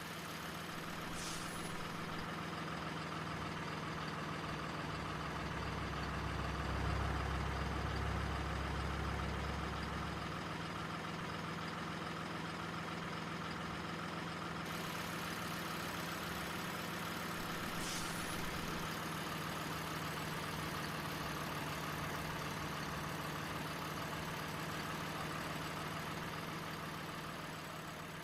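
Steady engine-like drone of a remote-control model, with a deeper rumble swelling in from about five to ten seconds in.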